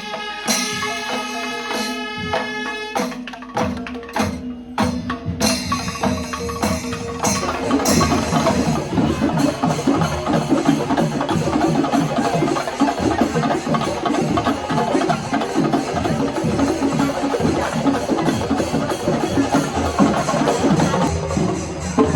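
Music with steady held tones and sharp clicks, then dense, fast drumming from a percussion ensemble taking over about eight seconds in.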